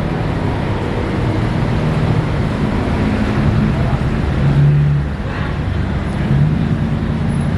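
Car engine running close by, a low exhaust drone that shifts in pitch, loudest about four and a half seconds in.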